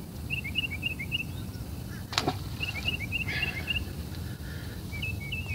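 A songbird singing the same short phrase of quick high chirps over and over, about every two seconds, over a steady low outdoor rumble, with one sharp click about two seconds in.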